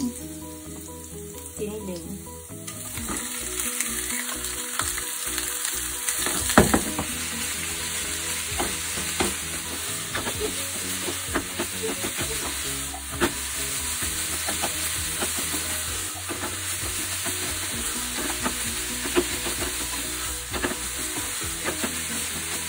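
Ground pork sizzling in a hot oiled frying pan while a metal spatula breaks it up and stirs it, scraping and clicking against the pan. The sizzle starts about two and a half seconds in, and there is one loud knock about six and a half seconds in.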